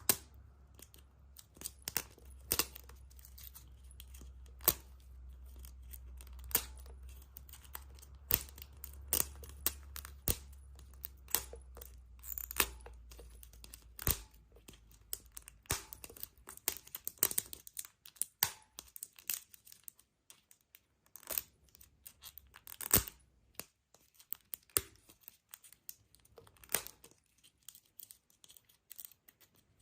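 Foil wrapping being torn and crinkled, as when a chocolate surprise egg is unwrapped. It is an irregular run of sharp crackles and clicks that thins out in the second half, with a low hum under the first half.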